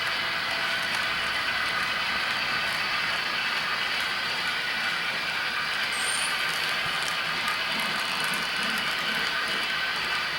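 Model train running steadily along the layout track, a continuous mix of running noise and faint steady tones with no break.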